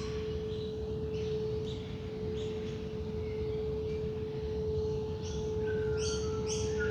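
A singing bowl's steady ringing tone, with short bird calls repeating over it and coming thicker near the end.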